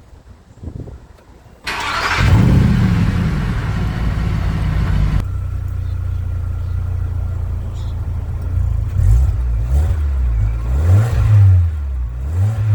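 VW Touran engine starting about two seconds in, with a loud, noisy first few seconds, then settling to a steady idle through a newly fitted rear exhaust muffler box. It is revved briefly three times near the end, and the exhaust sounds sound, with no problem heard.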